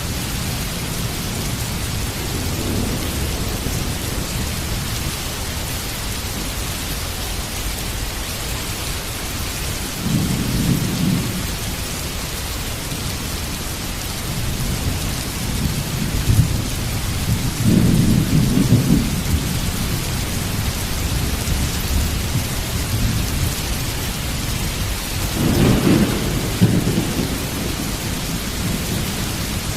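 Heavy steady rain, with low thunder rumbling in several swells, the strongest near the middle and about three seconds before the end.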